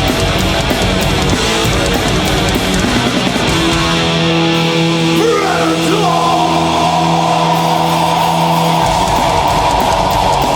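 Live heavy metal band playing loud distorted electric guitars, bass and drums. About four seconds in the drums drop away, and a lead guitar bends up into a long held high note over sustained chords. The full band comes back in near the end.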